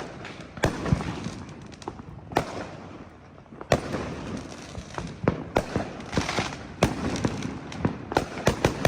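Fireworks and firecrackers going off all around: sharp bangs of varying loudness at irregular intervals over a continuous noisy background, with a quick run of several bangs near the end.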